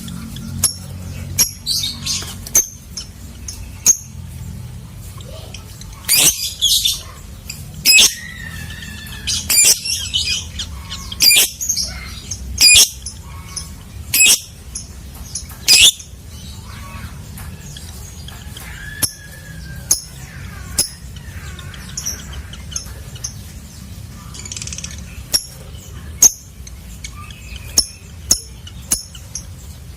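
Lovebird giving repeated short, shrill squawks and chirps, coming thickest in the middle, over a low steady hum.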